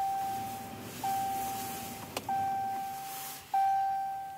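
A vehicle's cabin warning chime dinging at a steady pace, about once every second and a quarter, four times, each ding a single clear tone that fades before the next. There is a short click about two seconds in.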